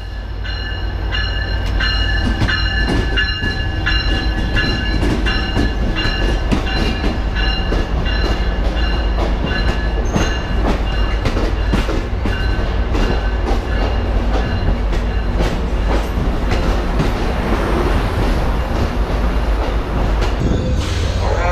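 Amtrak Pacific Surfliner passenger train pulling into the platform and rolling past close by, with a heavy low rumble and wheels clacking over the rail joints. High ringing tones sound over it through the first half.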